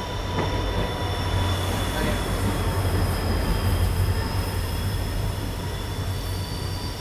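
Diesel-hauled passenger train running, heard from on board: a steady low rumble with several thin, steady high whining tones over it.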